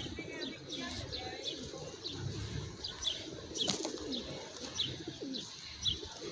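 Birds calling: a small bird's short, high chirps repeat about twice a second over low, gliding cooing calls.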